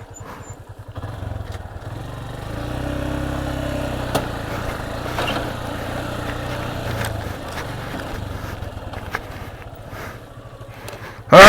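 Motorcycle engine running at low revs, building about two seconds in, holding steady, then easing off.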